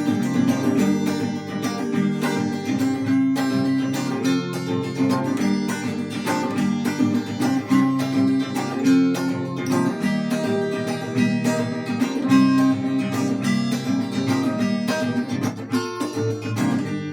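Instrumental break of a Russian rock song, with no singing: guitar strummed in a steady rhythm, chords changing every few seconds.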